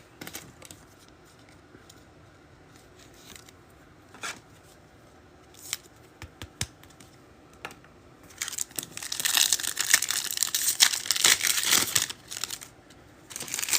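A few light clicks and taps, then about eight seconds in a foil trading-card pack is torn open and its wrapper crinkles for several seconds.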